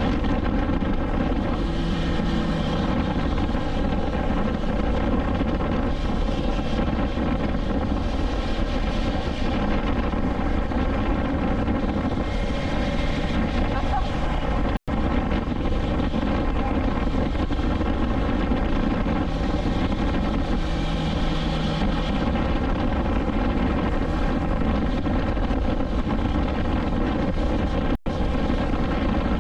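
BMW S1000XR inline-four engine running at a steady cruising speed, with wind and road noise rushing over the rider. The sound cuts out for an instant twice, about halfway through and near the end.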